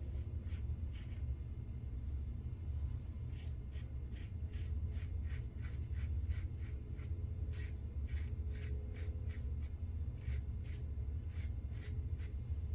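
Safety razor scraping through lathered stubble in short strokes, a few a second, with a brief pause about two seconds in, as the face is shaved against the grain. A steady low hum runs underneath.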